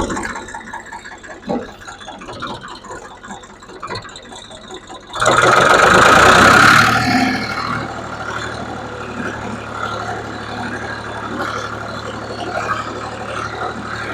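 Tractor engine running as the tractor drives, with a loud surge of sound for about two seconds some five seconds in, then a steady engine drone.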